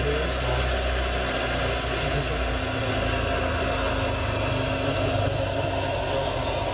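Radio-controlled construction model running steadily with an engine-like idle. Its low hum shifts in pitch about two and a half seconds in.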